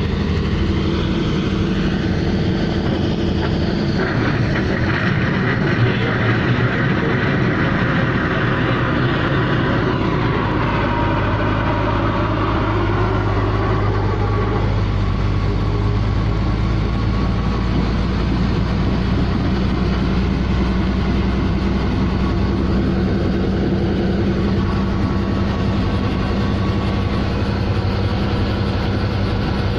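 Helicopter turbine and rotor running, a loud steady drone whose pitch shifts between about four and fifteen seconds in before settling.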